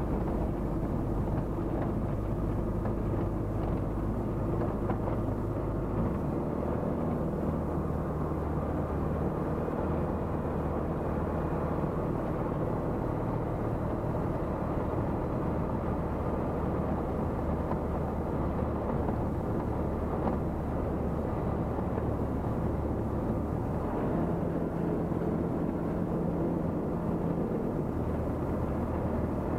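Tecnam P96 Golf's Rotax 912 four-cylinder engine and propeller droning steadily, as heard in the cockpit. The engine note shifts about six seconds in and again briefly near the end.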